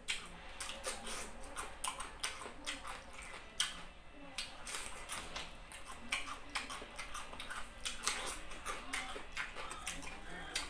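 Close-miked chewing and eating mouth sounds: many sharp, wet clicks and smacks at irregular intervals, several a second.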